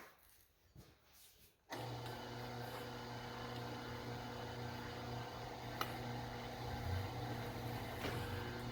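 Electric wire stripping machine starting up about two seconds in and running steadily with a low hum as it feeds an old copper welding lead through, slitting its soft rubber coating.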